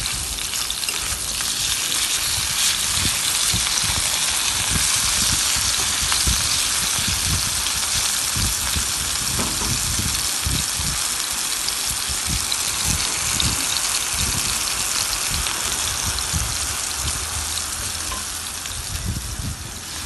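Thin slices of marinated chicken breast sizzling in hot oil in a frying pan, nearly cooked and golden. The sizzle is steady, with scattered soft low knocks underneath.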